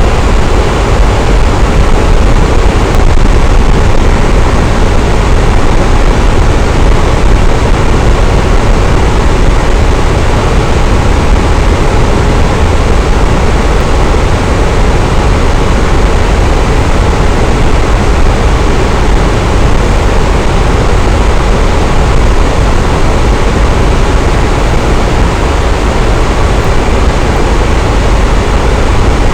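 Electric fan running steadily: a loud, even whoosh of moving air with a low hum and no change in speed.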